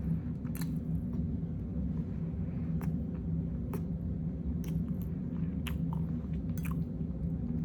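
A person chewing food close to the microphone with open-mouth smacking, irregular wet clicks of the lips and tongue every half second or so, over a steady low hum.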